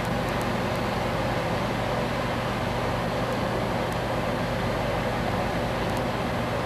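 Dishwasher running: a steady machine hum under an even hiss, with no change throughout.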